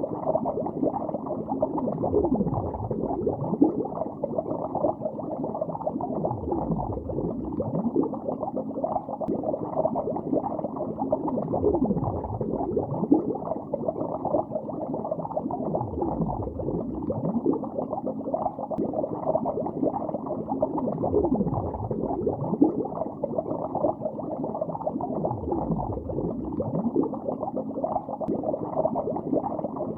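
Continuous underwater bubbling heard below a lake's surface: a dense stream of low bubbles with no high end, with slow swooping rises and falls in pitch every few seconds.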